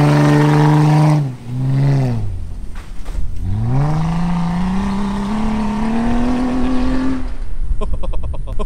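Jeep Wrangler's engine running at a steady pitch, then dropping off about a second in. From about three and a half seconds it revs up with a slowly rising pitch as the Jeep pulls away, fading near the end.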